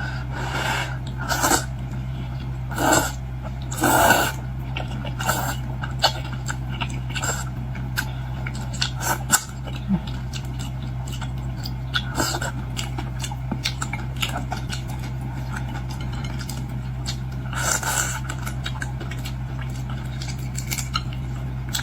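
Close-miked eating of seafood glass-noodle soup: irregular chewing and slurping with short clicks of utensils on the bowl, over a steady low hum.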